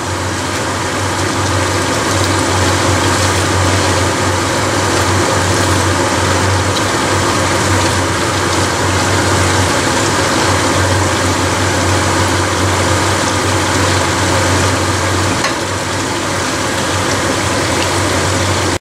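Beef, carrots and tomatoes sizzling and bubbling in a frying pan, with a steady low hum underneath.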